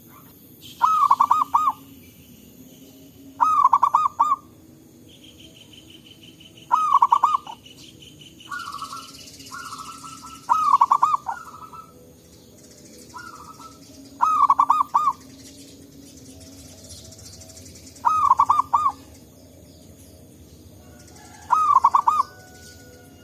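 Zebra dove (perkutut) cooing: a rhythmic, stuttering coo phrase repeated seven times, about every three and a half seconds, with softer answering coos in between. A high, pulsing trill runs behind it for a few seconds near the start.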